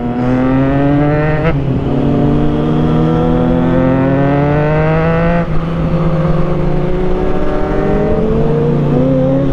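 Triumph Trident 660's inline three-cylinder engine with an aftermarket exhaust, accelerating hard through the gears. The engine note climbs steadily in pitch and drops at upshifts about a second and a half in and again around five and a half seconds, then pulls up more slowly near the end.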